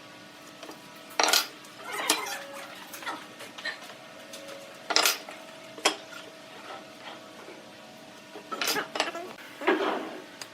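Several sharp clinks and knocks at irregular intervals, as of hard objects being handled, over a faint steady hum.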